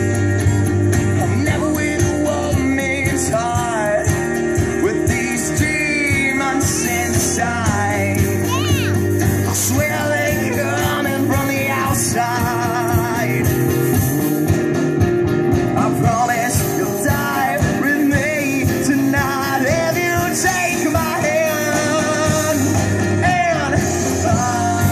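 A rock band playing live, with a vocalist singing over guitar, bass and drums.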